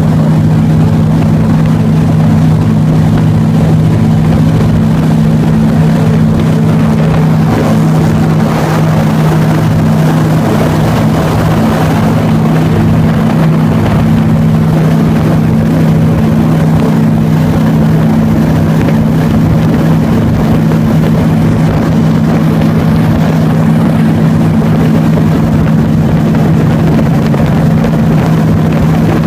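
Airboat's engine and large air propeller running loud and steady, holding one pitch throughout.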